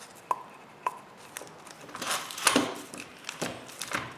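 Woodworking clamps being set and tightened on a glued-up wooden tray frame: a string of irregular sharp clicks and knocks of clamp parts against wood. The loudest cluster comes a little past halfway.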